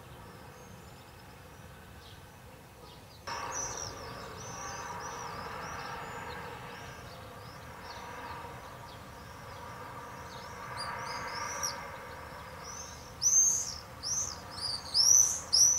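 Birds chirping over and over in quick, high, arching calls, getting much louder near the end as they fly close by. From about three seconds in, a faint steady lower hum runs underneath.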